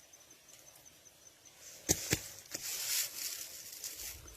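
A faint, rapidly pulsing high insect chirp, then two sharp snaps about two seconds in, followed by a second or two of rustling.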